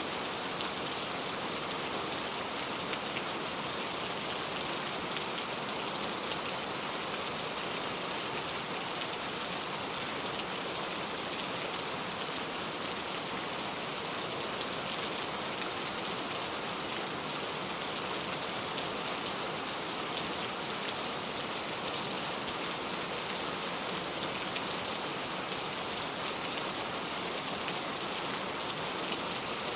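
Heavy pouring rain falling steadily, an even hiss of rain with the patter of individual drops on surfaces.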